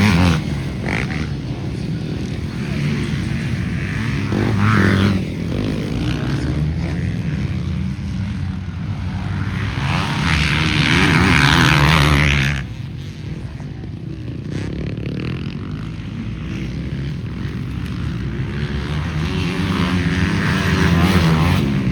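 Motocross motorcycle engines revving and changing pitch as bikes race. The sound swells about ten seconds in, then drops off suddenly after a couple of seconds.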